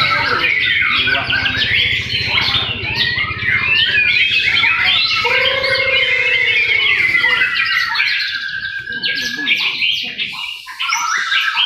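Several white-rumped shamas (murai batu) singing over one another, a dense chorus of fast whistles, trills and squawks, with a lower drawn-out sliding call about halfway through and a long trill after it.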